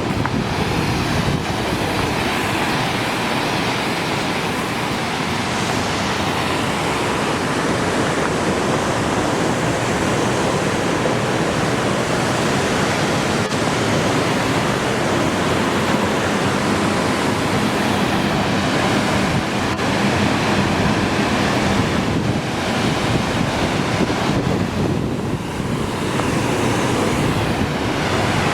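A waterfall's steady rushing: water pouring over a drop in an unbroken, even noise.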